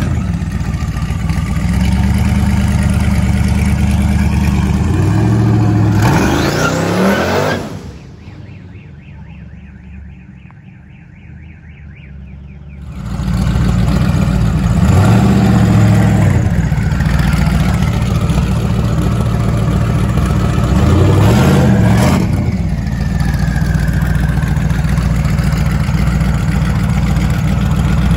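Twin-turbocharged LS-swapped V8 in a box Chevy running loud, revved up and back down three times. The engine sound drops to a quieter, muffled stretch for a few seconds about a third of the way in.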